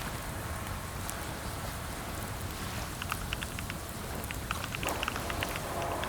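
Computer keyboard being typed on, with quick runs of short key clicks that pick up about halfway through. Under it runs a steady low rumble and hiss.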